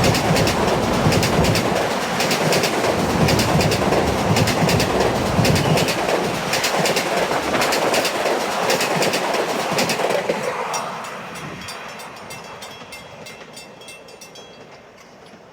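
Long Island Rail Road train passing at speed, its wheels clacking over the rail joints, then fading away from about ten seconds in.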